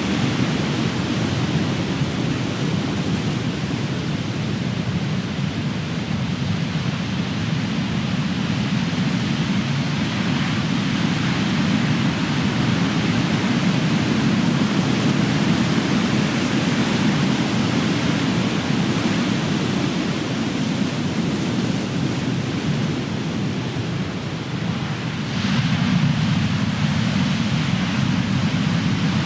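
Big ocean waves crashing and the surf rushing steadily, a deep continuous roar with a fresh wave breaking about 25 seconds in.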